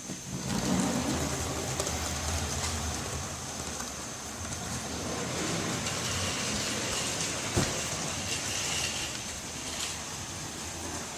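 HO-scale model train locomotive running around the track after the power is switched on: its small electric motor hums while the wheels make a steady whirring rattle on the rails. One sharp click about seven and a half seconds in.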